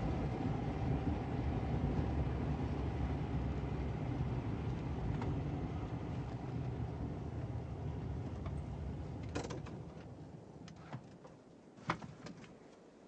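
Motor vehicle engine running with a steady low rumble that fades away about nine seconds in, followed by a few sharp clicks, the loudest one near the end.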